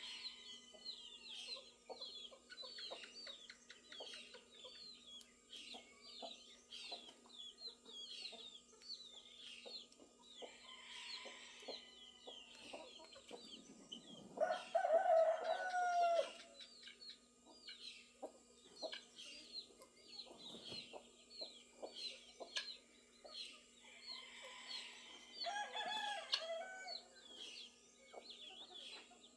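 Farmyard at dawn: a rooster crows loudly once, about halfway through, with chickens clucking and a shorter fowl call near the end. Small birds chirp rapidly and continuously throughout.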